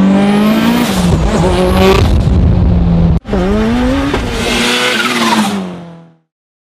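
A high-revving turbocharged engine of an 800 hp Mitsubishi Lancer Evolution under hard acceleration, loud and wavering in pitch. It cuts off abruptly about three seconds in, then comes back rising in pitch and fades out near the end.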